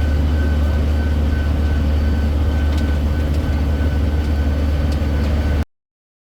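Steady low engine drone of a city tour train in motion, with a thin steady whine above it and a few faint clicks. The sound cuts off abruptly near the end.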